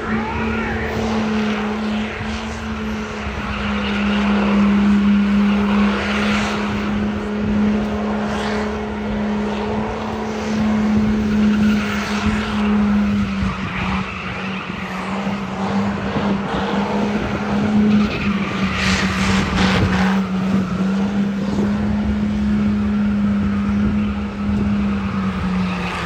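High-horsepower truck engine held at a steady high rev for the whole stretch while the tires spin and squeal in a burnout, easing off and dropping in pitch right at the end.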